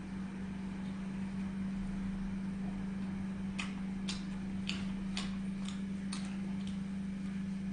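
Wet mouth clicks and smacks of chewing close to the microphone, about two a second through the second half, over a steady low hum.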